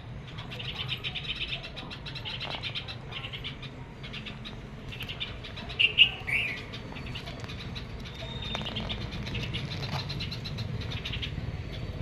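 Baby birds calling for food: a continuous chorus of rapid, high-pitched cheeping. About six seconds in come two louder, sharper chirps, the second one falling in pitch.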